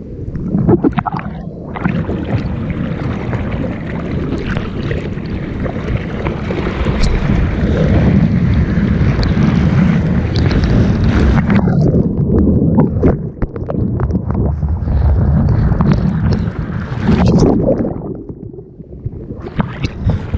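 Water rushing and splashing over a board-mounted action camera on a bodyboard in the surf, with wind on the microphone. The rush is loudest from about two seconds in to about twelve seconds, then eases, surges once more and dies down near the end.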